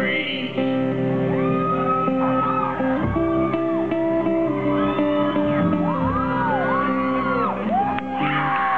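Live folk-rock band playing, with guitar and other plucked strings holding chords, and voices whooping and shouting over the music.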